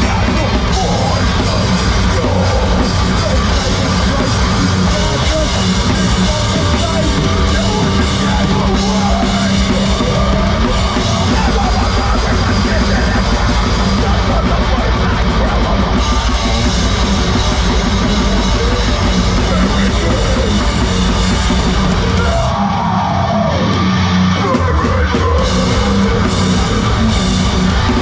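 Live heavy rock band playing loud, with drum kit, guitars and bass. About twenty-two seconds in, the drums and low end drop out for about two seconds before the full band comes back in.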